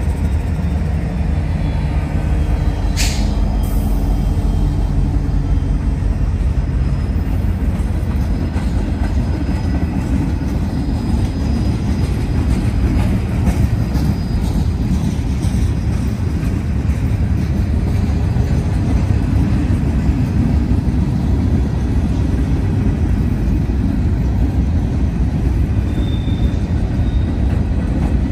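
Norfolk Southern freight train passing close by: the diesel locomotives' engines drone for the first few seconds, giving way to the steady rumble of freight cars rolling over the rails, with a short high squeal near the end.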